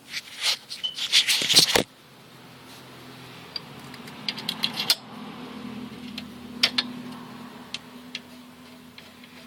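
Metal clinking and clattering of a bolt and hand tools being handled, loudest in the first two seconds, then scattered light ticks over a low steady hum.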